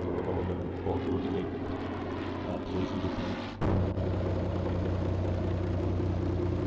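Vintage propeller aircraft engine running steadily. About three and a half seconds in the sound breaks off sharply and comes back louder and steadier.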